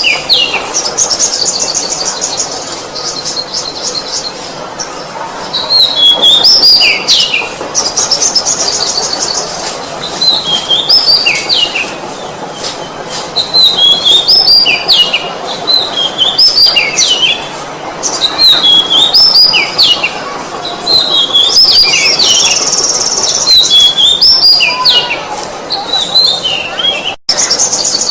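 Oriental magpie-robin singing: loud whistled phrases that swoop up and down, repeated over and over and alternating with fast buzzy trills, with a momentary break in the sound near the end.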